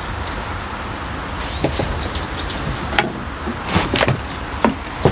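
Steady hiss of rain falling on pond water, with small birds chirping repeatedly in short rising notes. Several sharp taps come in the second half.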